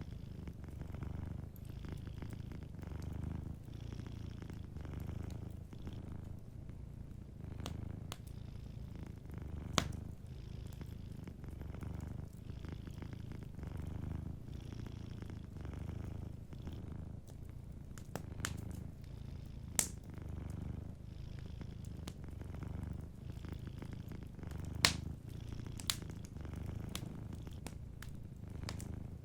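Domestic cat purring steadily, the low rumble swelling and easing with each breath, with a handful of sharp pops from a crackling wood fire, the loudest about ten, twenty and twenty-five seconds in.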